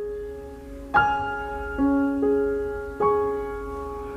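Slow, soft piano background music: single notes and chords struck about once a second, each left to ring and fade.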